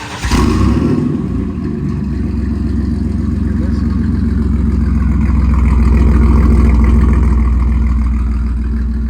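Pickup truck engine with a straight-piped, dual-exit exhaust, just started cold: a loud burst right at the start, then a steady loud rumbling idle that swells slightly in the middle.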